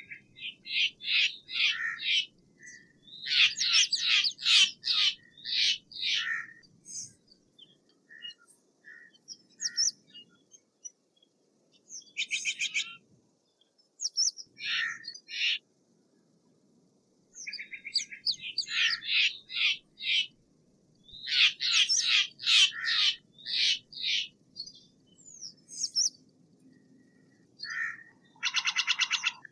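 Steller's jay calling in runs of harsh, rapidly repeated notes. The runs come in bursts of several seconds with pauses between them.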